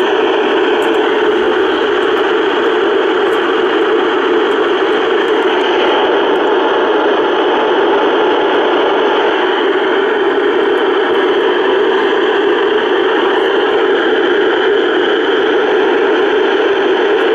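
Loud, steady static hiss from a NOAA Weather Radio receiver, the sound of a weak or lost broadcast signal drowning out the alert audio.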